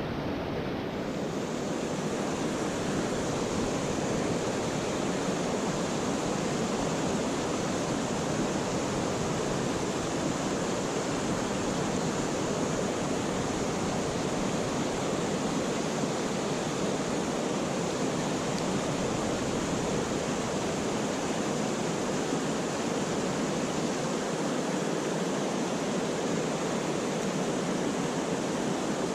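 Steady rush of a mountain stream's flowing water, an even noise with no separate events.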